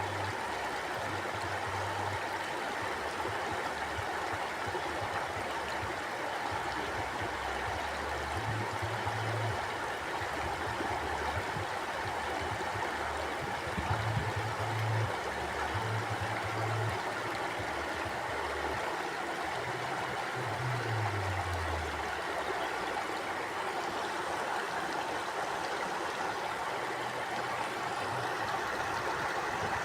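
Mountain stream flowing over rocks in a steady rush of water, with low rumbles coming and going every few seconds.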